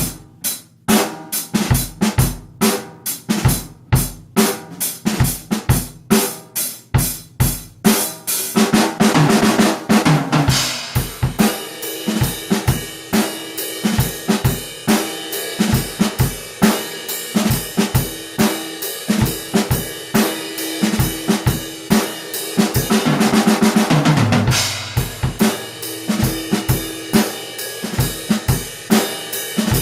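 Drum kit played in a country-song drum cover: spaced kick and snare hits at first, then from about eight seconds in a fuller beat under a constant cymbal wash. About twenty-three seconds in, a run of drum strokes falls in pitch as a fill.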